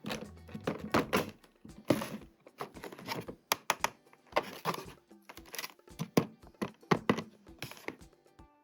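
Hard plastic toy parts being handled, clicking and tapping irregularly several times a second.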